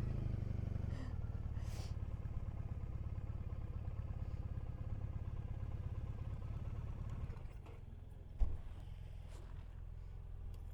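Triumph Bonneville parallel-twin motorcycle engine running steadily at low speed. About seven and a half seconds in it drops to a quieter run, and a single short thump follows a second later.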